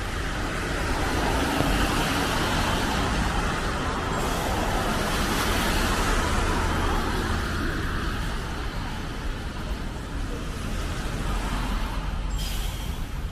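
Road traffic passing on a snowy street: a steady low rumble of engines under tyre hiss that swells and fades in the middle, with a brief sharper hiss near the end.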